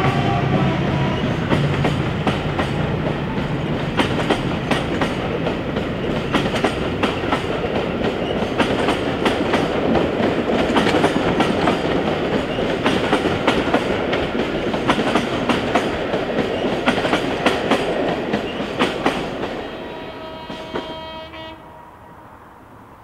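Coaches of a passenger train rolling past, their wheels clicking sharply and irregularly over the rail joints, while the low drone of the leading Class 14 diesel-hydraulic locomotives fades away ahead. Near the end the noise dies down and a horn sounds faintly in the distance.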